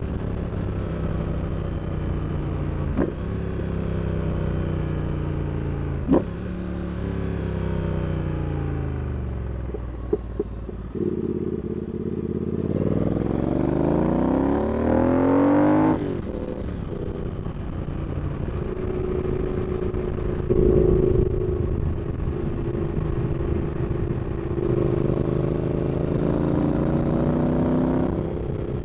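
Triumph Speed Twin 1200's parallel-twin engine pulling through the gears while riding, the revs climbing and dropping at each upshift. Near the middle comes a long hard pull that cuts off sharply, followed by steadier running and another rising pull near the end, with a few sharp clicks along the way.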